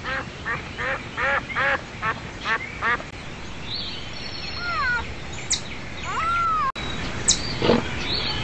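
A bird calling over and over, about three short calls a second for the first three seconds, then other birds chirping and whistling.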